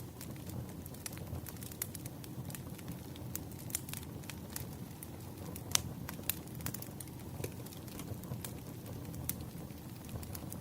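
Wood fire crackling: a steady low rumble with irregular sharp pops and snaps, the loudest about six seconds in.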